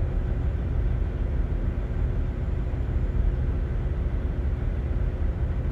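Semi truck's diesel engine idling with a steady low rumble and a faint steady hum.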